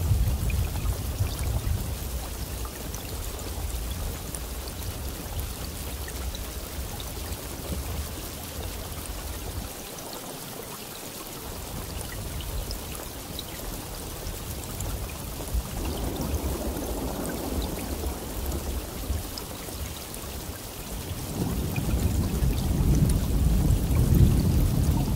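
Steady rain falling, with low thunder rumbling under it. The thunder fades briefly about ten seconds in, swells again, and rolls loudest near the end.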